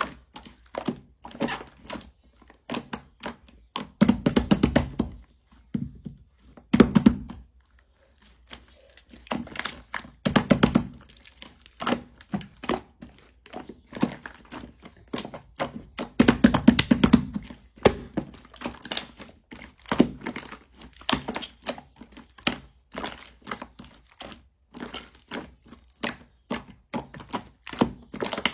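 Clay-mixed slime being kneaded and squeezed by hand, making quick runs of crisp clicks and pops, with heavier squishing bursts about four times.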